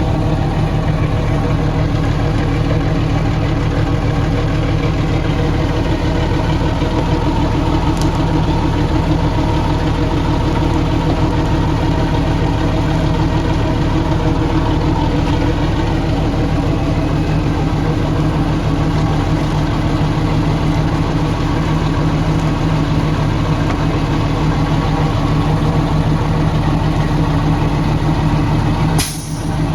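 An engine running steadily at idle, with a short drop in level near the end.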